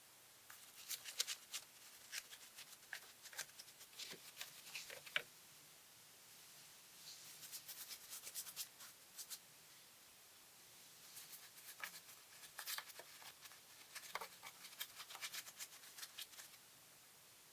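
Quiet hand cleaning work: scratchy rubbing and small sharp clicks in irregular clusters, with short pauses between them.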